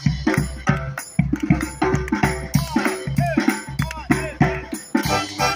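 A brass band of trumpets and trombones, with drums and percussion, playing an up-tempo tune over a steady, bouncing bass line.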